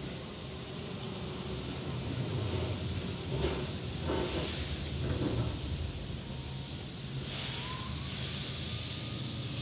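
Keihan 8000-series electric train pulling into the platform, its wheels rumbling on the rails, then a sudden burst of air hiss about seven seconds in as it stops, with a short rising squeal just after.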